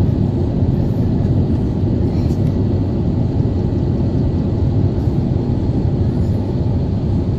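Steady, loud, low rumble of an Airbus A350-900 heard from inside the cabin in flight: engine and airflow noise with no change in pitch.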